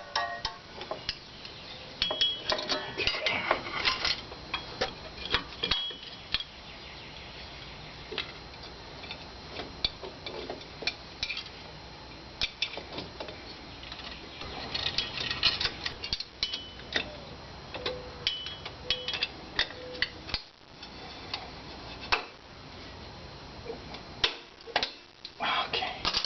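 Scattered metallic clicks and clinks of hand tools and drum brake parts being handled and fitted as a rear drum brake is reassembled.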